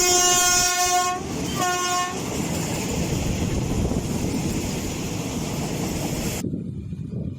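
Train horn sounding as the train nears a halt: a long blast that ends about a second in, then a short second blast. Then the steady rumble of the passing train, its high hiss cutting off suddenly near the end.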